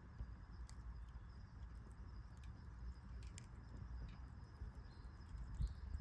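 Campfire wood crackling, with scattered sharp pops at irregular intervals over a low steady rumble, and a louder dull thump near the end.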